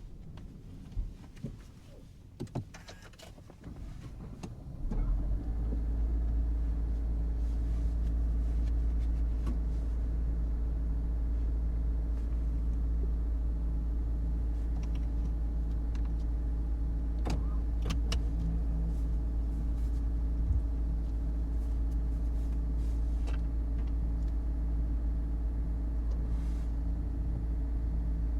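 Inside a Honda HR-V e:HEV hybrid: a few light clicks and handling noises, then about five seconds in the petrol engine starts and settles into a steady, even hum.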